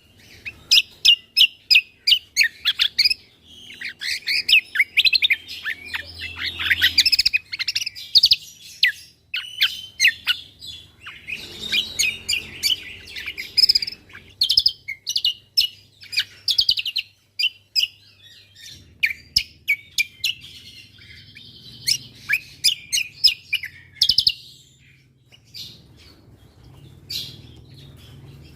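Cucak kombo songbird singing rapid runs of sharp chirps and trills, in bursts with short breaks about nine, seventeen and twenty-five seconds in.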